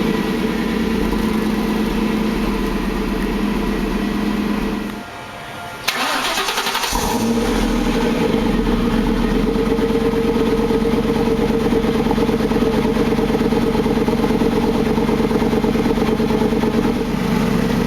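1999 Ford Mustang Roush Stage 2's 4.6-litre V8 idling through its side exhaust. The engine cuts out about five seconds in, then restarts a second later with a short burst of starter cranking and catches, settling back into a steady idle.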